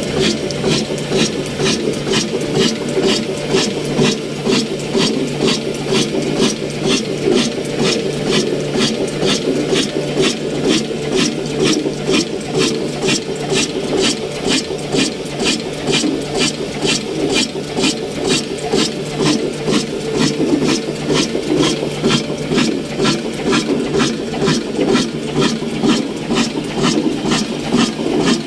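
Old 22/24 HP, 300 RPM stationary diesel oil engine running steadily under the load of a flour mill, with a slow, even beat of about two to three strokes a second.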